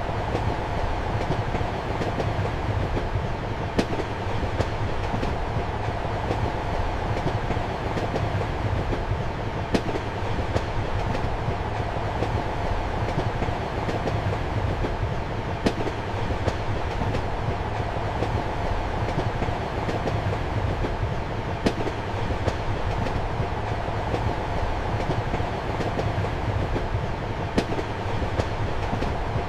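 Passenger train running, heard from inside a compartment: a steady rumble and hum of the carriage and wheels on the rails. A sharp click of the wheels comes through about every six seconds.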